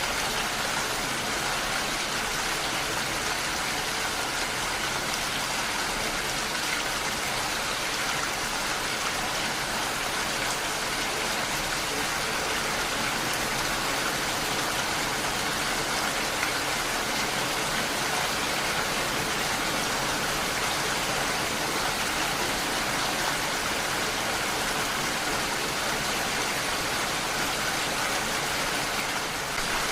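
Steady heavy rain falling, a dense, even hiss of drops with no breaks or pauses.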